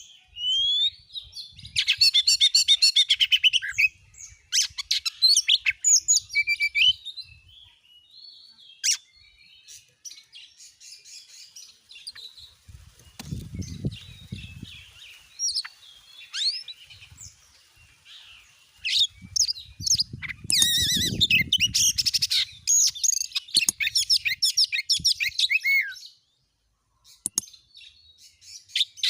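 Oriental magpie-robin (kacer) singing loud, rapid, varied song in long bursts, packed with sharp, shrill 'shooting' notes, with softer scattered phrases in between and a brief pause near the end.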